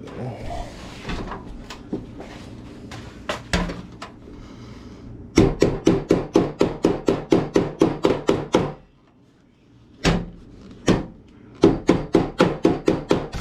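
Hammer blows on a sheet-steel repair patch, rounding its edge. A few scattered taps come first, then a quick run of ringing blows at about six a second for about three seconds. After a short pause there are two single blows and another quick run near the end.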